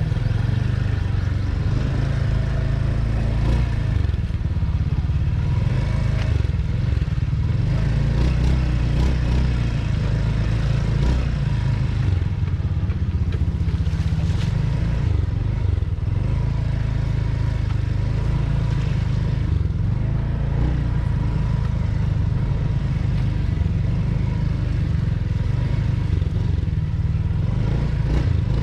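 Motorcycle running steadily while being ridden, under a heavy, continuous low rumble.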